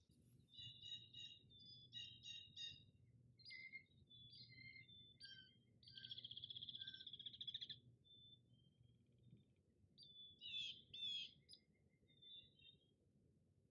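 Faint small-bird calls: a run of short high chirps and notes, a buzzy trill lasting about two seconds in the middle, then a cluster of sharper calls and a few last notes.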